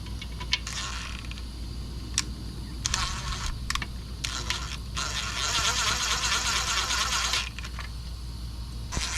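A spray nozzle hissing in bursts as an engine is washed down: a short spray about a second in, another around three seconds, a longer spray of about two and a half seconds from five seconds in, and another starting near the end, with scattered clicks between them.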